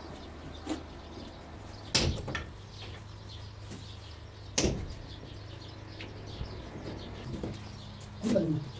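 Three sharp knocks a couple of seconds apart, the second and third the loudest, over a steady low hum.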